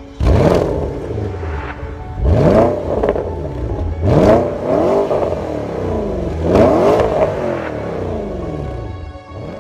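A car engine revved four times, each rev climbing sharply in pitch and then falling away.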